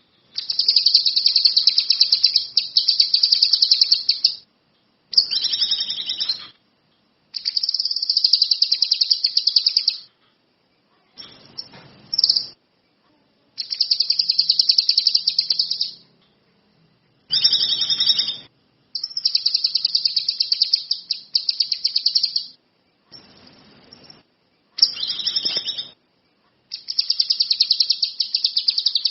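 A kinoi songbird singing rapid, high-pitched trilled phrases. There are about nine bursts of one to four seconds each, separated by short, abruptly silent gaps.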